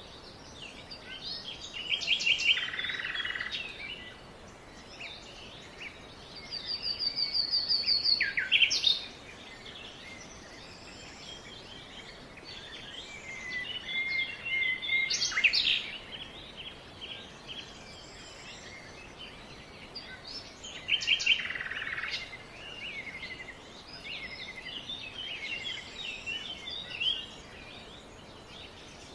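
Several songbirds singing and calling over a steady background hiss, in bursts of chirps, trills and rapid repeated notes about every six seconds, with quieter twittering between.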